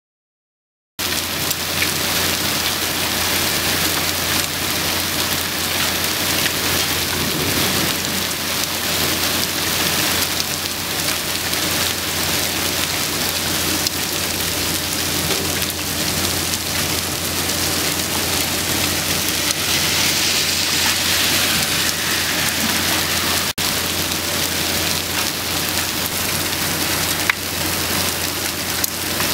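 Hailstorm: hail and rain pelting down in a dense, steady hiss, starting abruptly about a second in.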